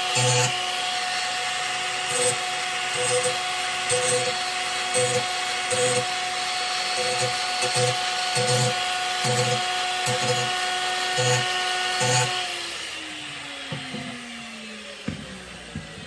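Angle grinder running at speed, its disc touched lightly and repeatedly against the edge of a steel lawn mower blade, about once a second, sharpening it. About 12 seconds in the grinder is switched off and its whine falls in pitch as the disc spins down, followed by a few knocks.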